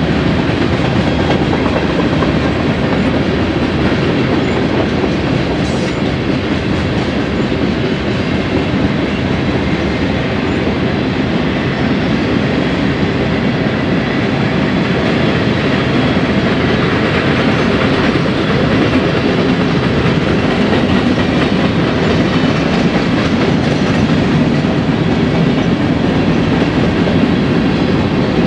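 Freight train cars rolling past: a steady, loud rumble of steel wheels on the rails, unbroken for the whole passage.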